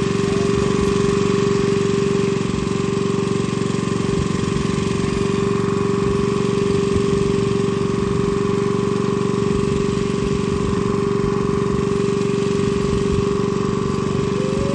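A fishing boat's engine running steadily, a constant hum over a low rumble.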